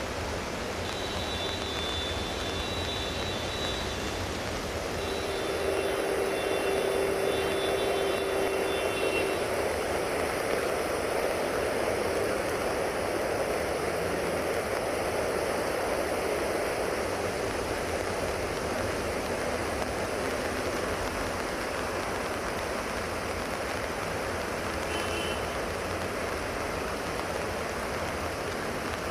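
Heavy rain and rushing floodwater in the street, a steady noise that swells about five seconds in. A few faint high thin tones sound over it in the first several seconds.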